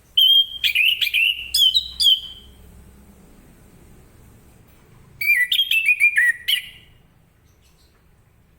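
Orange-headed thrush (anis kembang) singing loudly in two rapid phrases of sliding whistled notes, the second beginning about five seconds in.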